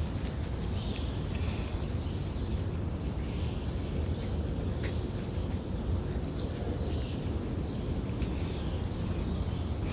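Small birds chirping in short, scattered high calls over a steady low background rumble.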